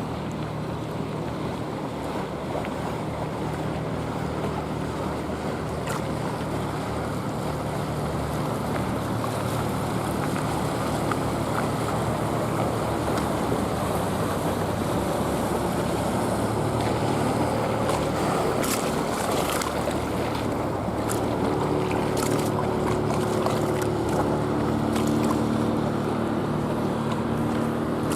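Inboard engines of passing motor sloops and cruisers running steadily, with water lapping and wind on the microphone. A second engine hum comes in about three-quarters of the way through.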